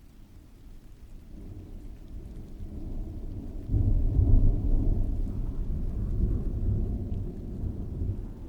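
A roll of distant thunder that builds over the first few seconds, breaks into its loudest low rumble a little before the middle, then slowly dies away, over a faint steady hiss of rain.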